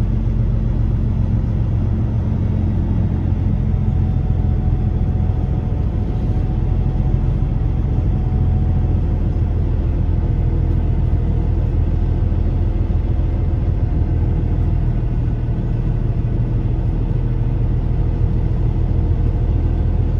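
Semi truck's diesel engine running steadily, an even low drone with no change in pitch.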